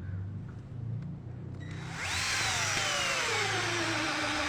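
Ken 12V cordless drill driver starting up about halfway through and driving a long screw of about 7 inches; the motor's whine falls steadily in pitch as it works under the screw's growing load.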